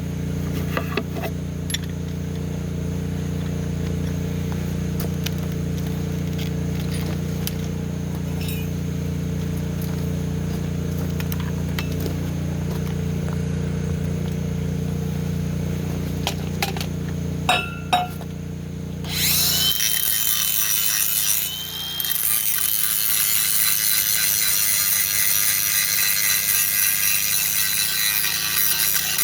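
A steady low engine hum for most of the time, with a few light metal clinks; then, about two-thirds through, an angle grinder starts grinding steel, its whine dropping out briefly and spinning back up once.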